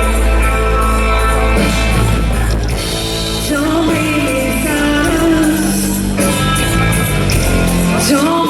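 Live rock band playing, with a female lead vocalist singing over distorted guitars, bass and drums with cymbal crashes.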